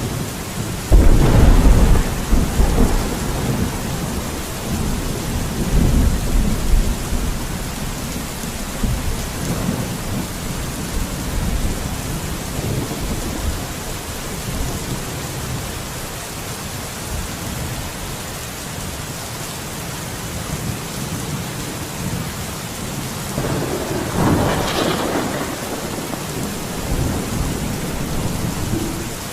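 Steady heavy rain with thunder: a sudden loud crack about a second in that rumbles on for several seconds, and a second, shorter roll of thunder near the end.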